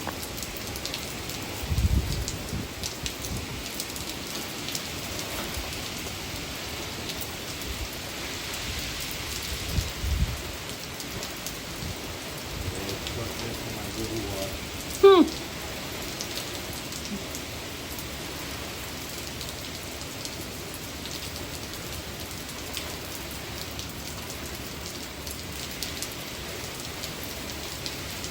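Hurricane Milton's heavy rain falling steadily, with two brief low rumbles about two and ten seconds in.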